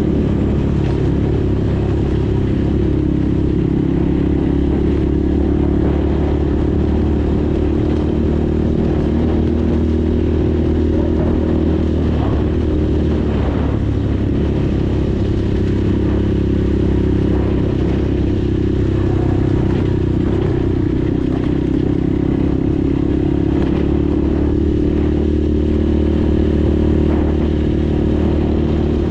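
PROGASI Super Max 250 enduro motorcycle engine running at a steady cruising speed, with small rises and falls in pitch. A few short clatters come about halfway through.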